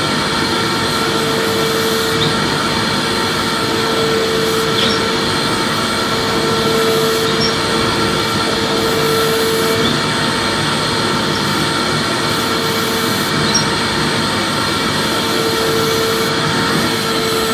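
Vacuum cleaner running steadily: a continuous rushing hum with thin steady whines on top, one lower whine fading in and out every few seconds.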